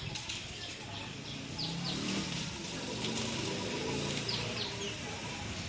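Small birds calling with short, repeated falling chirps over a steady outdoor hiss. From about two seconds in, a low, wavering motor drone builds up underneath.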